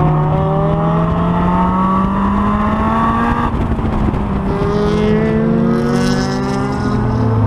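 Honda S2000's four-cylinder engine pulling hard on track, its revs climbing through a gear. About three and a half seconds in there is a quick upshift, the revs climb again, and near the end the pitch drops as the driver comes off the throttle or shifts down.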